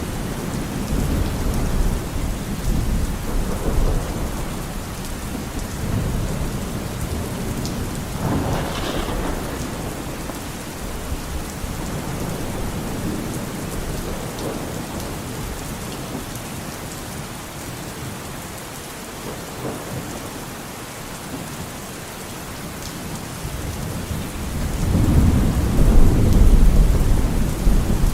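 Steady rain falling, with rolling thunder rumbling under it; the thunder swells loudest near the end.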